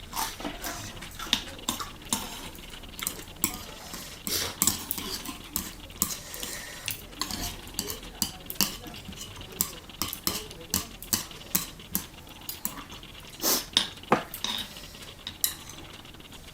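Spoon and chopsticks clinking and scraping against an earthenware ttukbaegi bowl while eating ramen: irregular short sharp clicks, one or two a second.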